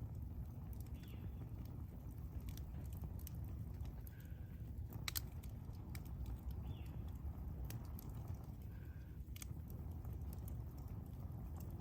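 Campfire wood burning with a steady low rumble and scattered sharp crackles and pops, the loudest about five seconds in and again near nine and a half seconds.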